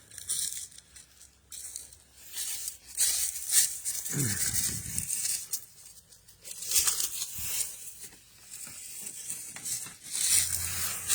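Intermittent rustling and crackling with a few knocks, and a short sound falling in pitch about four seconds in.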